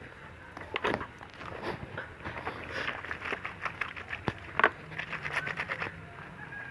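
Wet clothes being scrubbed and squeezed by hand in a bowl of soapy water: irregular sloshing and rubbing strokes, with a couple of sharper splashes.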